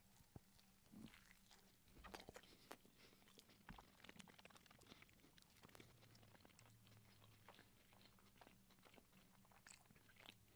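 Faint biting and chewing of a breakfast burrito: a mouthful of grilled tortilla, hash browns and sausage, heard as scattered small clicks.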